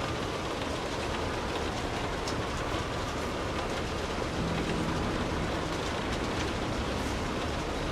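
Steady rain falling, with a low rumble underneath and a faint hum about halfway through.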